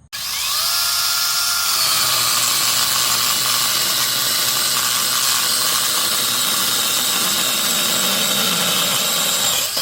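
Cordless battery chainsaw spinning up with a rising whine, then cutting through firewood. The pitch drops about two seconds in as the chain bites into the wood, and the saw stops near the end.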